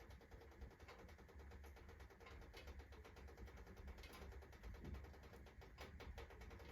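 Faint, irregular crackling and ticking from a wood-burning stove heating up fast on fresh kindling, over a low steady rumble. The clicks come from the burning wood and from the stove's iron body working as it expands.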